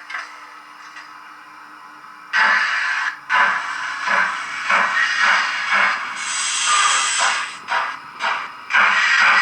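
Digital sound decoder of a Roco BR 01 H0 model steam locomotive starting off: after a quiet stretch, hissing steam chuffs begin about two seconds in and go on in a steady beat of about one and a half a second, with a burst of sharper steam hiss midway.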